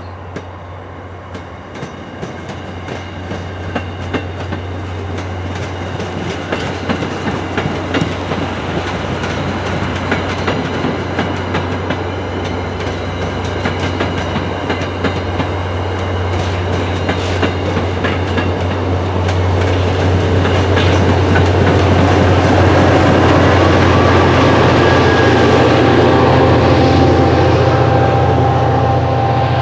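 MBTA commuter train passing, its wheels clicking over rail joints under a steady low drone. It grows steadily louder and is loudest in the last third.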